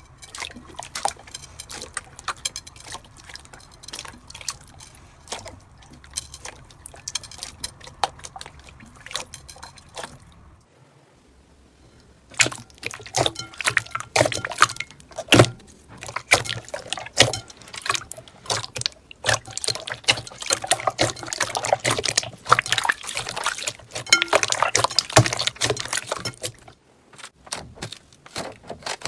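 Slime being squeezed and kneaded by hand, making rapid wet clicks and pops. The clicking is softer in the first clip, pauses about ten seconds in, and returns louder and denser after a couple of seconds.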